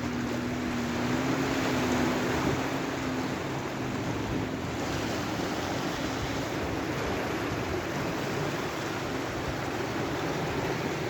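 Sea waves washing on the shore in a continuous surf. A steady low engine hum, likely a boat, rides on it and fades after about three seconds.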